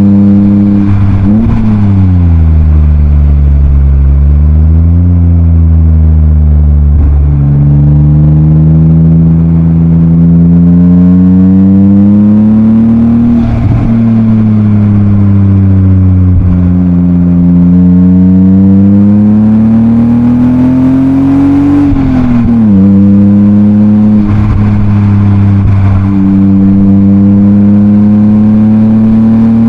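BMW M52B28 2.8-litre inline-six heard through a Schmiedmann rear silencer, pulling hard through the gears. The exhaust note climbs in pitch as revs rise and drops sharply at each upshift, four times, with stretches of easing off and steady cruising between.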